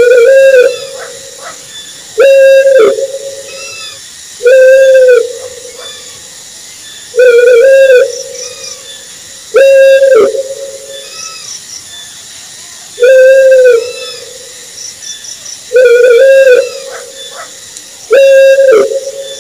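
Owl hooting: a single, slightly arched hoot of under a second, repeated every two to three seconds, eight times, over a steady background hiss.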